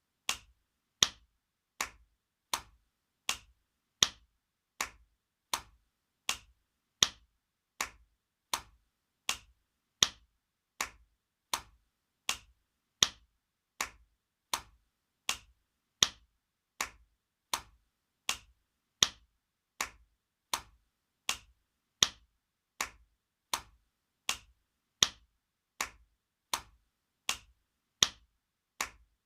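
Looped spanking sound effect: sharp slaps repeating steadily, about three every two seconds, with every fourth or so noticeably louder.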